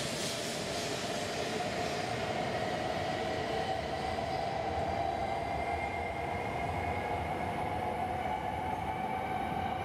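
E5 series Shinkansen pulling out of the station and gathering speed as its last cars and tail pass, a continuous rushing noise with a steady whine that rises slowly in pitch.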